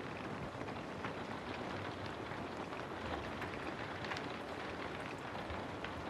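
Steady rain falling, an even hiss dotted with many small, sharp drop impacts.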